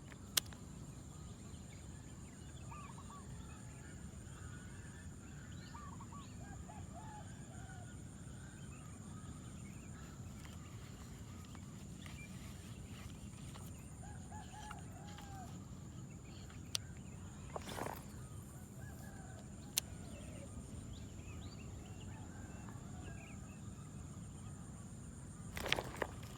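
Birds calling in short clucking notes, often in quick groups of three or four, scattered through the stretch over a steady outdoor hum and a thin high whine. A few sharp clicks stand out, one of them about seventeen seconds in.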